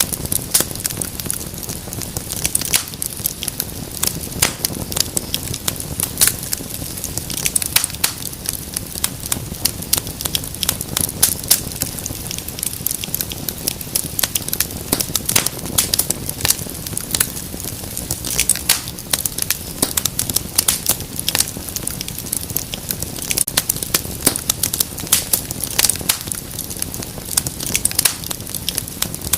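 Wood fire crackling steadily in a fireplace: dense, irregular pops and snaps over a low rumble of flame.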